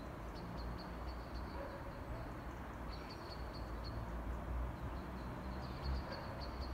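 Low rumble of wind on the microphone, with a bird calling in quick runs of short, high chinks.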